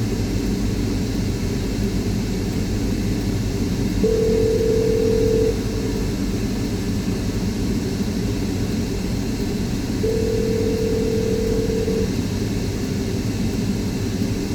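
Telephone ringback tone on an outgoing call: a steady tone rings twice, about four seconds in and about ten seconds in, each ring a couple of seconds long, over a steady low rumble of car road and engine noise.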